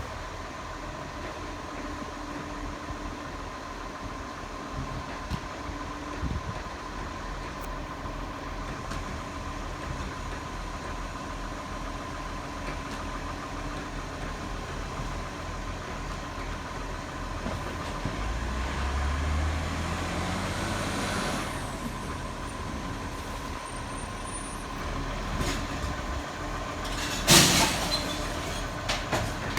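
Garbage truck's diesel engine running with a steady high whine over it; about two-thirds of the way through it revs up for a few seconds and settles back. Near the end comes a short, loud hiss of the air brakes.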